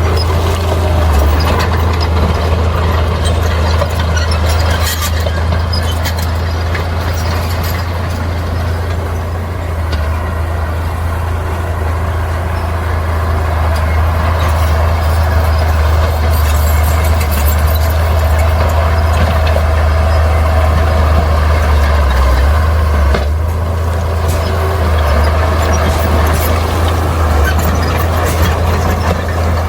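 Bulldozer's diesel engine running steadily under load with a deep, even rumble, and occasional knocks from rock being pushed.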